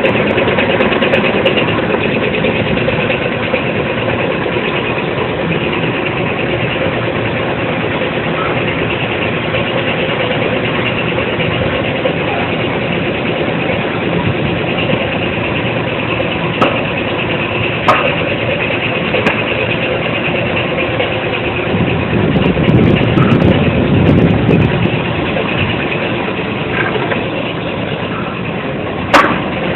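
Coffee dryer machinery running steadily, a continuous mechanical noise with a few sharp knocks.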